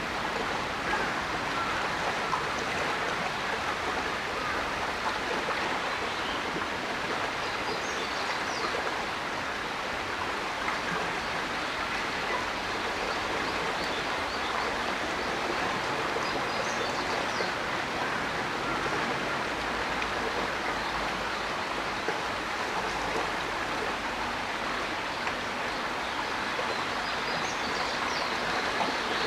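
Steady rush of flowing water, as from a stream or water channel. Faint high chirps come through three times.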